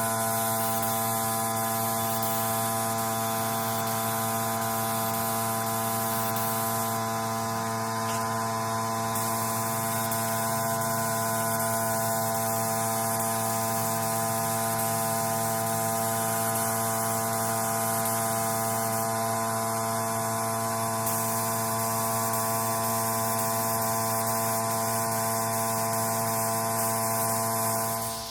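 A steady machine hum with a hiss, holding one even pitch and dropping off sharply at the very end.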